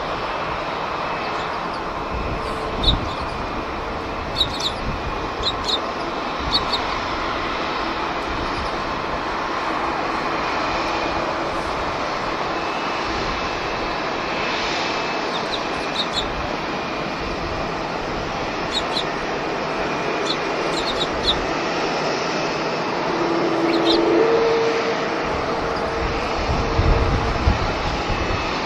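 Jet airliner engines at an airport, a steady rushing roar that swells slightly near the end. Short high chirps are scattered through it.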